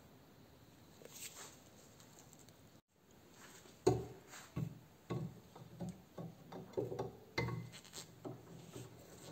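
Workshop handling sounds: a run of irregular light knocks and clunks, starting about four seconds in after a brief cut in the sound.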